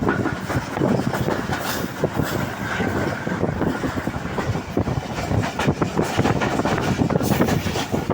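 Passenger train running along the track: a steady rumble with quick, irregular rail clatter.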